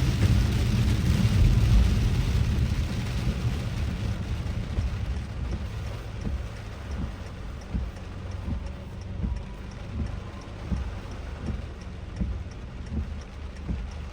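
Car driving through heavy rain, heard from inside: a steady low rumble of road and rain noise, loudest in the first two seconds, then easing. From about five seconds in come regular soft thumps about twice a second.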